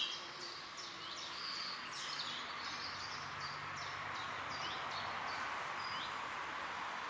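Small birds chirping, short high calls several to a second at first, thinning out and fading, over a steady outdoor hiss.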